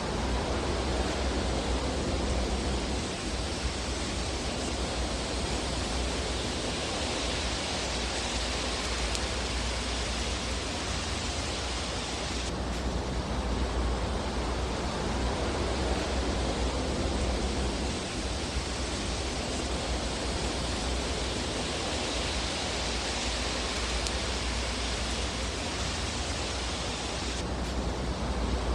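Steady, even hiss and rush of a fireplace fire ambience track, with hardly any distinct crackles. The upper hiss shifts briefly twice, about fifteen seconds apart.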